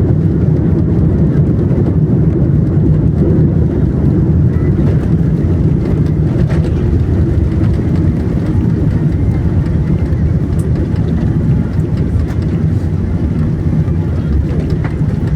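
Steady low rumble of a Boeing 787-10's cabin on the ground just after landing: the engines running and the wheels rolling on the runway or taxiway.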